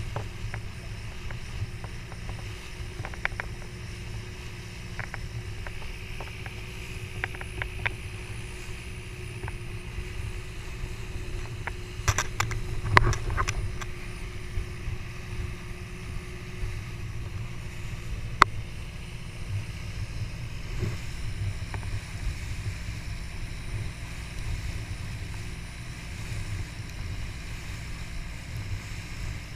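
A boat's engine running steadily, a constant low rumble, during the crossing. A cluster of sharp knocks comes about twelve to fourteen seconds in, and a single sharp click around eighteen seconds.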